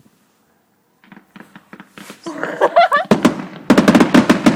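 Fireworks going off in a rapid string of sharp bangs and crackles, faint at first and turning loud and dense about three seconds in.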